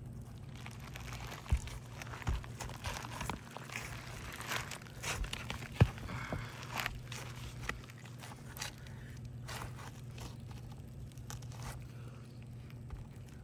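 Asphalt shingles crinkling and scraping as they are lifted and worked loose, with a few sharp knocks, the loudest about six seconds in, from a hammer driving a roofing snake to cut out the shingle nails.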